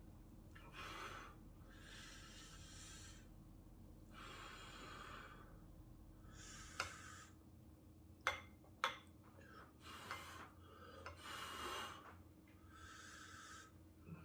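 A person eating hot ramen noodles: a string of airy, breathy blows and slurps, each about a second long, with a few sharp clicks of utensils against the bowl in the middle.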